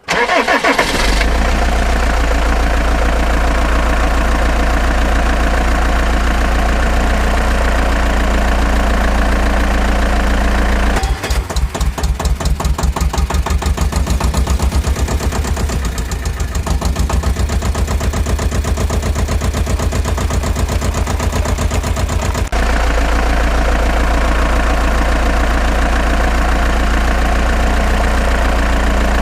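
Vehicle engine idling steadily with a deep hum. From about a third of the way in it changes to a pulsing, throbbing run for roughly ten seconds, then settles back to a steady idle.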